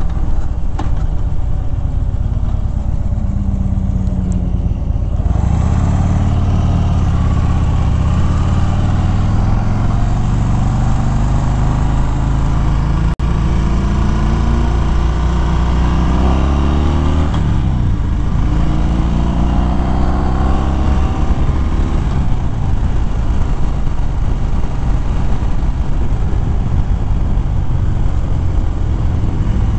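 Harley-Davidson Fat Bob's V-twin engine pulling away and accelerating through the gears, its pitch rising in a few repeated sweeps, with wind rushing over the microphone that grows about five seconds in once the bike is under way.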